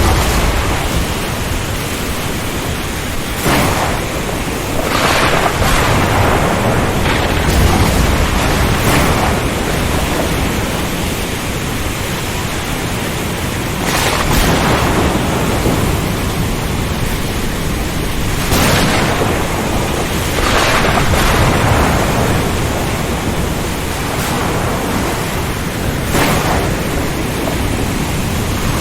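Storm over the ocean: a steady hiss of heavy rain and wind over a low thunder rumble, broken by short sharp cracks every few seconds.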